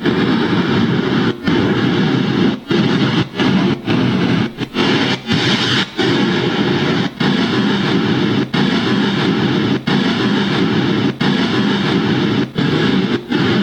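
White noise from an EVP recorder app played through a Bluetooth speaker: a loud, dense hiss that breaks off briefly every half second to a second and a half.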